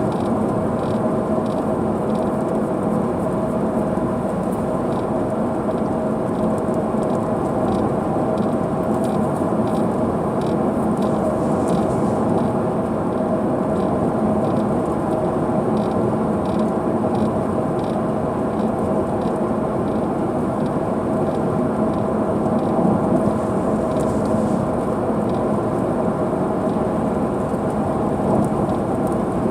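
Car driving through heavy rain, heard from inside: a steady wash of rain and road noise under a constant hum, with faint regular ticking in the first half.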